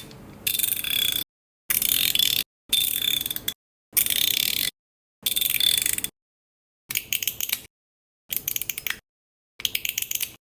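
EDC fidget toy clicking and rattling in about eight short bursts of rapid clicks, each stopping abruptly.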